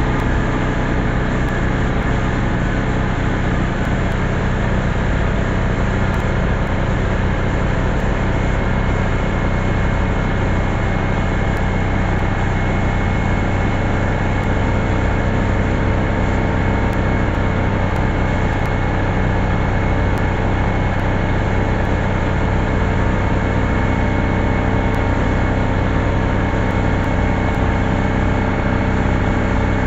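A steady mechanical drone, a constant low hum with a hiss over it, holding level and unchanged throughout.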